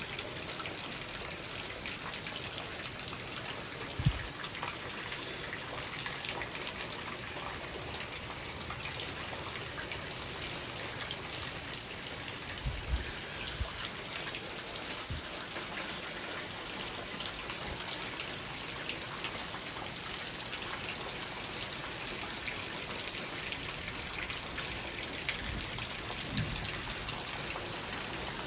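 Steady rain falling in a thunderstorm, a continuous hiss with scattered drip-like ticks and a few brief low thumps.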